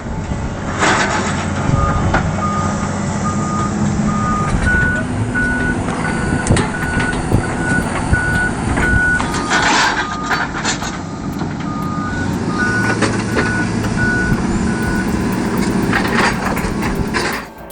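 Reversing alarm on heavy machinery beeping about twice a second, its pitch stepping between two tones, over a steadily running engine.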